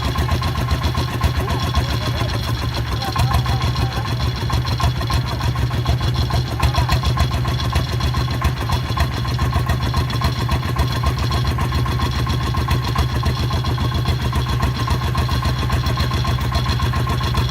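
Diesel engine of a farm hauling vehicle running steadily at close range, with a fast, even chug.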